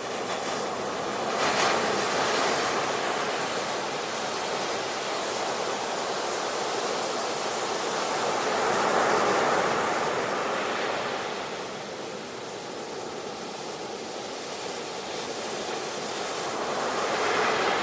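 Ocean surf: a steady wash of waves that swells and eases three times, near the start, about halfway through and near the end.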